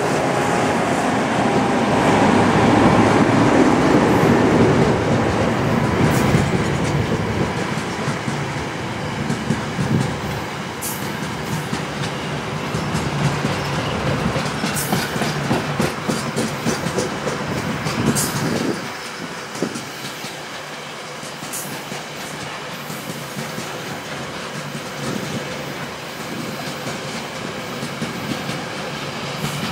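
Loaded grain freight train passing close by. For the first few seconds the diesel engines of the last locomotives drone past. Then the loaded wheat hopper wagons roll by with a steady clickety-clack of wheels over the rail joints, and the low rumble drops back about two-thirds of the way through.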